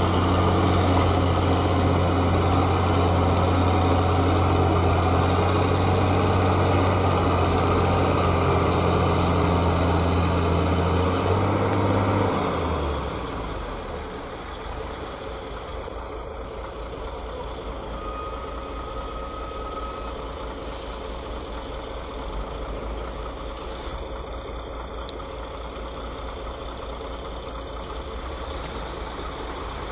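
Heavy logging truck's diesel engine running with a steady low drone. About twelve seconds in it drops away to a quieter, rougher rumble, with a brief high tone a few seconds later.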